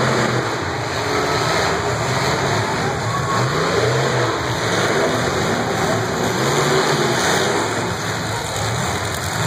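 Demolition derby cars' engines running and revving in the arena, several at once, their pitch rising and falling unevenly over a steady din.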